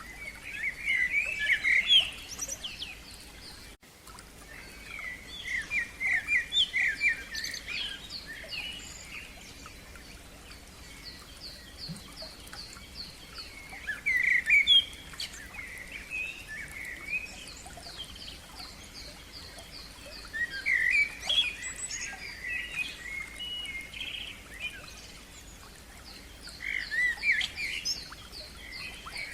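Songbirds singing: one bird repeats a short, rapid song phrase about every six or seven seconds, while a second bird keeps up a fast series of high, repeated notes between the phrases.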